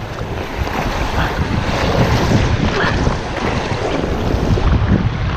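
River rapids rushing and splashing around an inflatable kayak as it spins through the whitewater, with heavy wind noise on the microphone.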